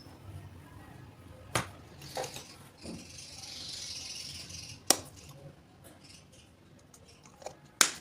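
A few sharp clicks and taps of small hard objects being handled, with a soft hiss in the middle.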